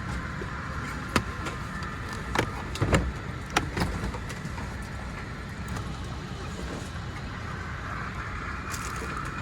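Steady low rumble with several sharp clicks and knocks between about one and four seconds in.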